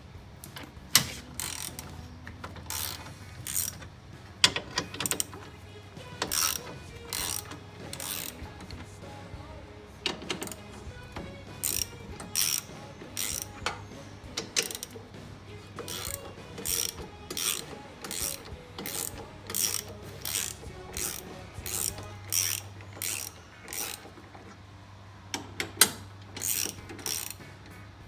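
13 mm ratchet wrench clicking in repeated short runs as bolts are undone, with a few sharper knocks of metal.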